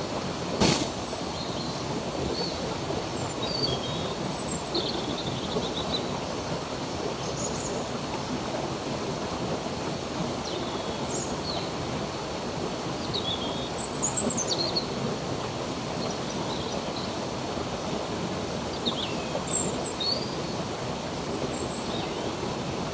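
Stream water running steadily, with small birds chirping in short scattered calls over it. A single sharp click sounds under a second in.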